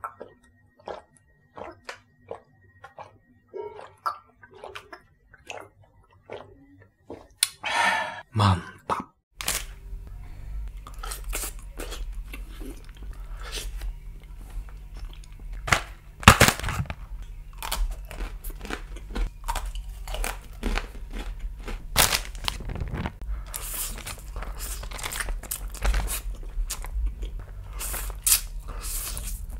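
Close-miked crunching and chewing of a crunchy snack, short crunches about one a second at first, then denser and louder crunching over a steady low background hum after about nine seconds.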